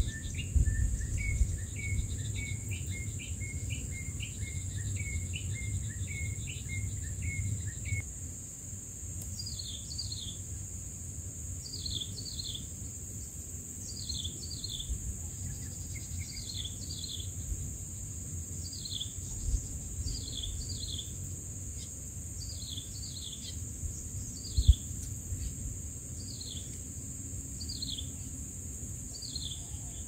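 Long-tailed shrike nestlings begging: rapid short chirps for the first eight seconds or so, then pairs of short, high, falling notes about every one to two seconds. A steady high insect drone and a low wind rumble run underneath.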